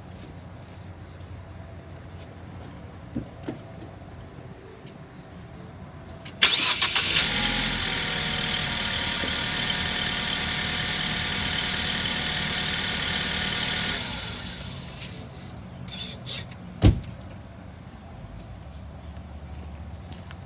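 Ford Focus engine cranked and started about six seconds in. It runs steadily for about seven seconds, then is switched off and dies away. A single sharp thump follows near the end.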